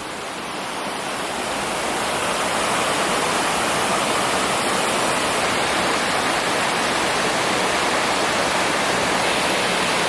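Steady rush of a waterfall pouring into a pool, growing louder over the first few seconds and then holding steady.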